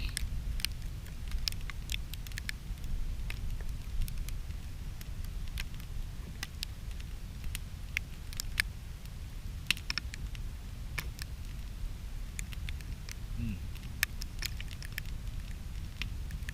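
Small wood campfire crackling, with irregular sharp pops and snaps, over a steady low wind rumble.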